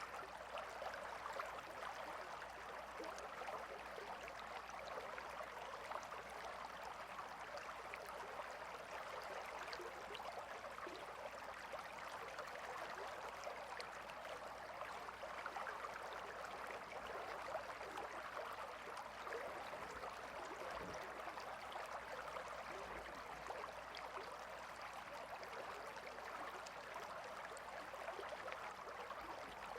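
Gentle river flowing: a steady, even babble of running water.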